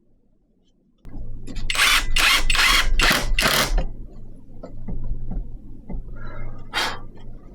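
A hand tool scraping across wood in five quick, even strokes, about two a second, then one more stroke near the end, over a low steady hum.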